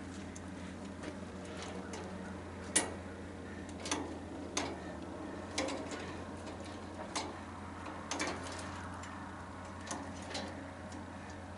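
Sharp clicks and snips at irregular intervals, roughly one a second, from hand tools and metal parts being worked while stripping wires and ballasts out of a tanning bed; the loudest comes about three seconds in. A steady low hum runs underneath.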